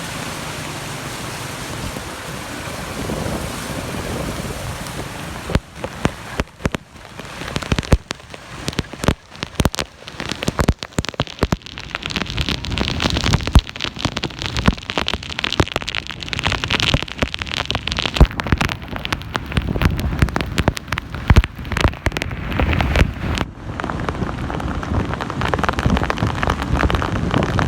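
Heavy rain: a steady hiss for the first five seconds or so, then a dense run of sharp drops striking close by.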